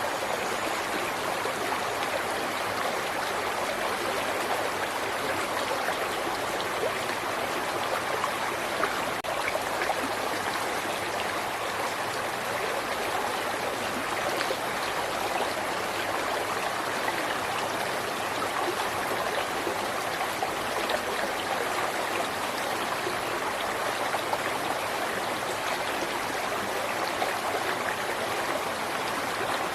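River water flowing and babbling over stones, a steady rush with small splashes and trickles throughout.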